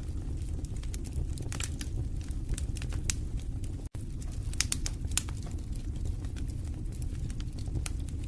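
Fireplace fire crackling, with frequent irregular sharp pops over a steady low rumble of flame. The sound drops out for a split second about halfway through.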